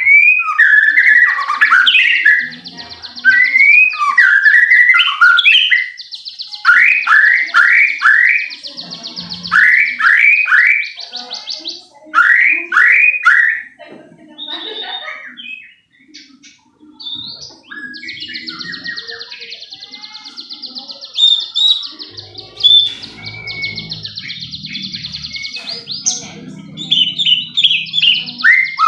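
White-rumped shama (murai batu) singing: loud whistled phrases and several runs of quick falling notes, over a long, fast buzzing rattle.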